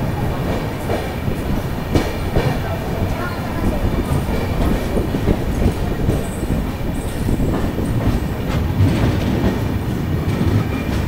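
Passenger train running along the track: a steady rumble with frequent clacks from the wheels over the rails.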